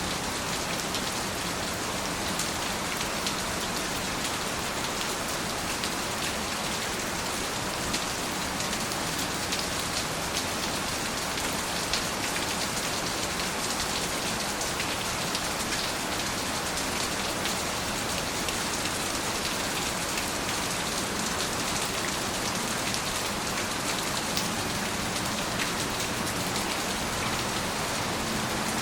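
Steady rain with the patter of individual drops hitting a surface.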